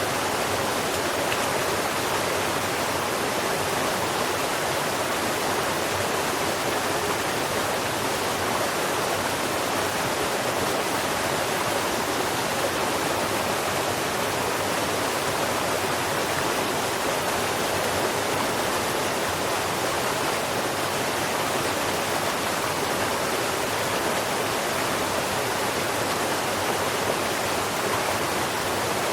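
Steady, unbroken rushing of flowing water, an even hiss with no birdsong standing out.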